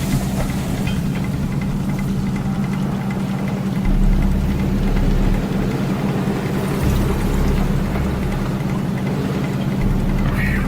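A ship's engine running with a steady low drone, under the rushing noise of a storm at sea. Heavier low rumbles swell in about four, seven and ten seconds in.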